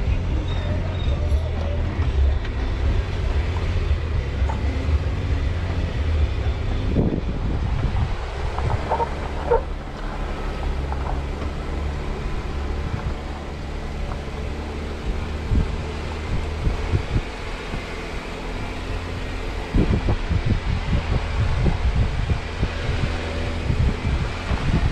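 Jeep Wrangler Rubicon crawling over rough rock trail at low speed, a steady low rumble from the engine and drivetrain with scattered knocks and rattles from the body and suspension. The knocks come thickest near the end.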